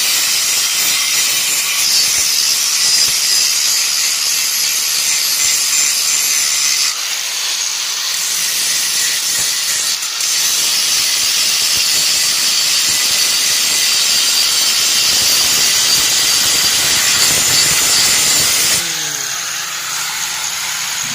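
Metalworking on a chainsaw guide bar's steel plate. It is a loud, steady hissing noise that eases briefly about a third of the way in and drops off near the end.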